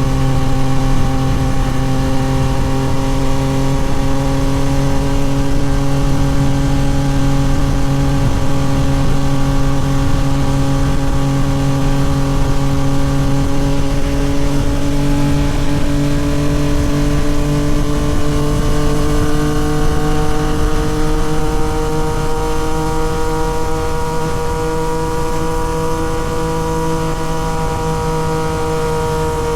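Yamaha MT-09 SP's three-cylinder engine through a Toce full exhaust, running at a steady cruise, its pitch rising gently in the second half.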